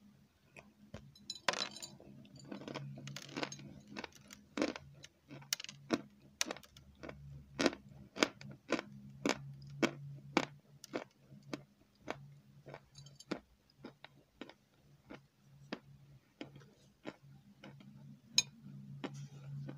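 Close-miked chewing of a crunchy white curd cookie: a steady run of sharp crunches, about two a second, over a low steady hum.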